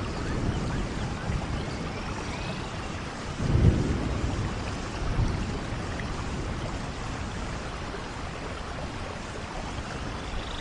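Steady rain, with a low rumble of thunder swelling about three and a half seconds in and a smaller one a second or so later.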